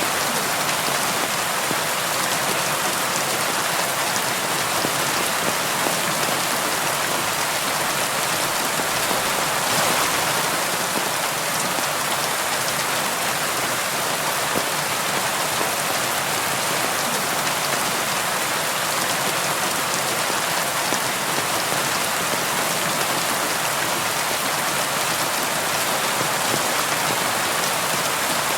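Steady rain on a window, a dense even patter with scattered drop ticks, briefly a little heavier about ten seconds in.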